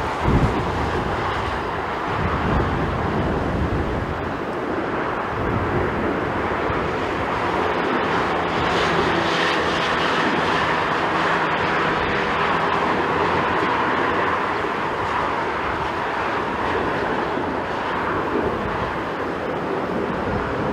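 Jet airliner engines running as the aircraft passes, growing louder through the middle and easing off near the end, with gusts of wind buffeting the microphone at the start.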